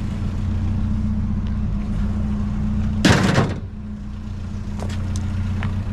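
Truck engine idling steadily, with a loud door slam about three seconds in.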